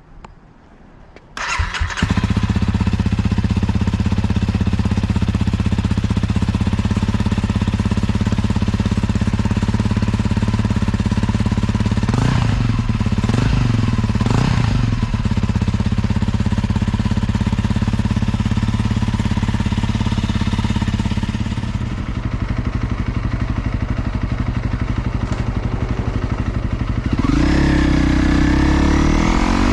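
Honda CRF250L's single-cylinder four-stroke engine, breathing through an SP Tadao Power Box header and DELTA Barrel 4S silencer, starting about a second and a half in and settling into a steady idle. It takes a few quick throttle blips around the middle and revs up near the end.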